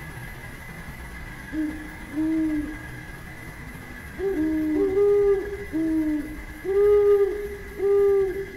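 A bird calling in a series of about eight low, hollow hoots, starting about a second and a half in and getting louder toward the end, the hoots alternating between two pitches. Two steady high tones run underneath.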